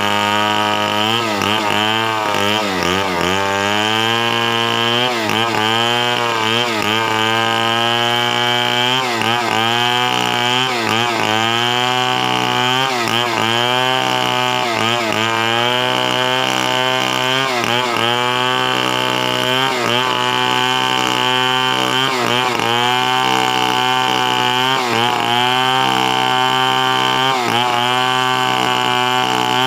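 A chainsaw is running hard through a cut, likely into a coconut trunk. Its engine pitch sags and recovers every second or two as the chain loads up in the wood.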